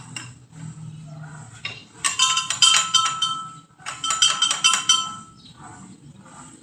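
Metal pieces clinking and rattling against each other with a ringing tone, in two runs of about a second and a half each.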